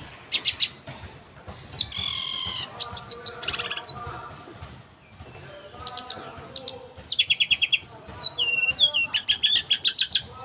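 Tledekan gunung songbird singing: bursts of fast repeated chirps and high whistles that slide downward, strung into rapid trilling phrases.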